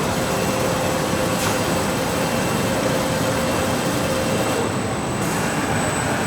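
Factory machinery running: a steady noisy din with a faint steady hum that stops about four and a half seconds in.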